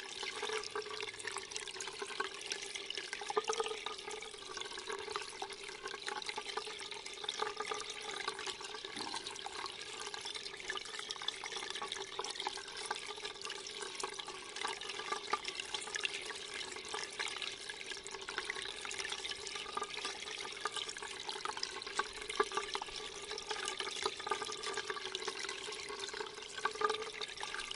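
Steady running, splashing water with a fine crackle of drops, unchanging throughout.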